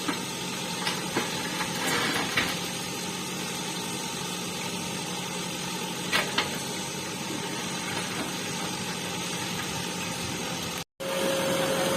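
Diesel engine of a JCB backhoe loader running steadily, with a few sharp knocks and clanks over it. Near the end the sound cuts out for a moment and comes back louder, with a steady whine added.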